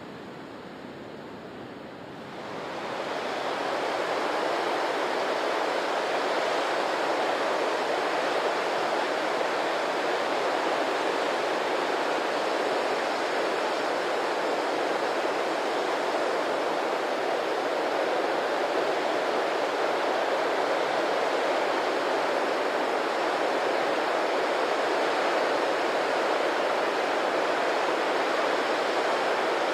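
Steady rushing water, an even roar that swells up about two to three seconds in and then holds level.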